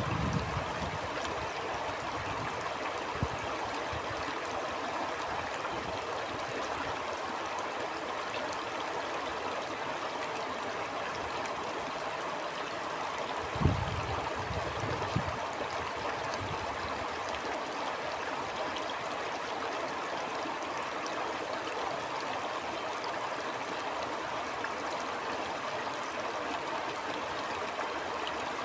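Stream flowing, a steady rush of water, with a few brief low thumps breaking through, the loudest about halfway through.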